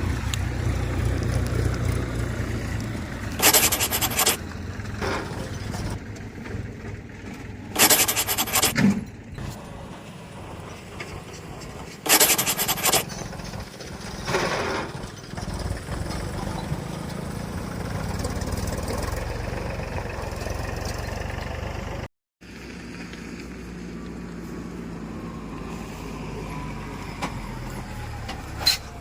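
A vehicle engine running steadily, broken by four short, loud bursts of noise.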